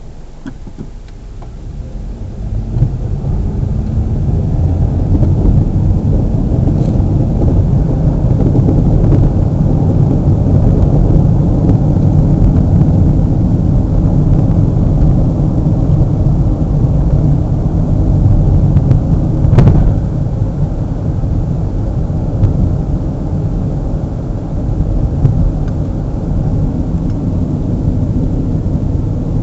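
Low, steady rumble of a car driving on a road, tyre and wind noise, swelling about two to three seconds in and then holding, with one brief click about two-thirds of the way through.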